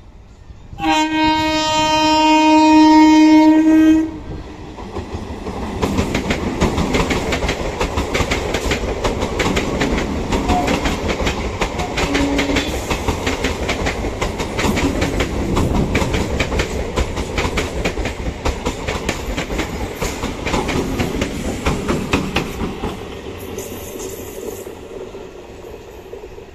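EMU local train sounding one long, loud horn blast, then passing at speed with a rapid clickety-clack of wheels over rail joints over the rumble of the coaches, fading near the end.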